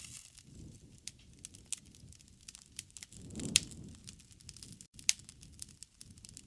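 Wood fire crackling, with irregular sharp pops over a soft low rumble of the flames; one louder pop with a brief swell of flame sound about three and a half seconds in, and another sharp pop about five seconds in.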